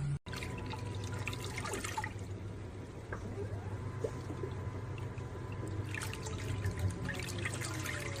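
Folding mini washing machine running with water in the tub: a steady low motor hum under water splashing and sloshing, heavier in the first couple of seconds and again near the end.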